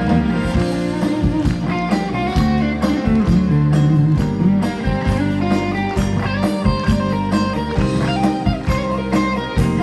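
A live band plays an instrumental break between sung verses, with a guitar carrying the melody over bass and drums.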